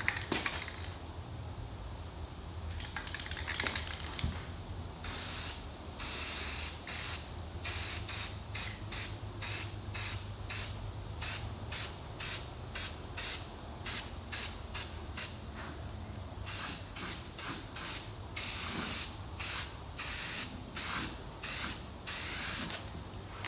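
Spray hissing in short, repeated bursts, about one a second, starting a few seconds in, over a low steady hum.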